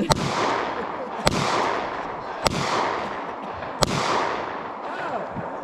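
Four gunshots about a second and a quarter apart, each cracking sharply and trailing a long echo that fades out.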